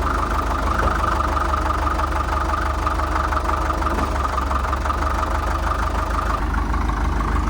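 1947 International Harvester TD-9 crawler's four-cylinder gas-start diesel engine running steadily, just brought back to life after years of sitting.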